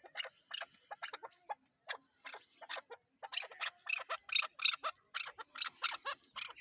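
Chukar partridge calling: a rapid series of short, sharp clucking notes that grows faster and louder about halfway through.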